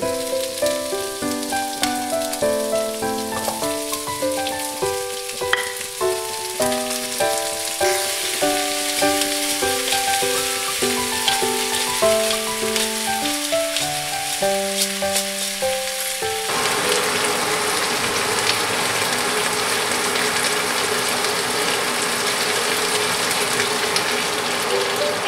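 Chicken feet sizzling as they fry in an oiled pan with onion and garlic, a steady crackling sizzle that grows louder over the first several seconds. Background music plays over it and stops about two-thirds of the way through, leaving the sizzle alone.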